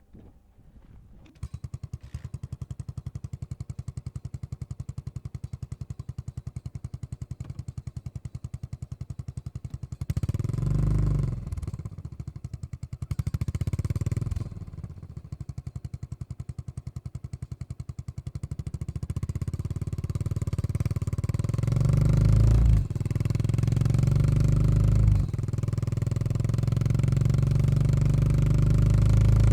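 2018 fuel-injected Yamaha SR400's single-cylinder engine through a Goods tapered-cone slip-on muffler, starting about a second and a half in and idling with an even beat. It is blipped twice around ten and thirteen seconds in, then revs up as the bike rides off, with two short drops in revs as it shifts up near the end.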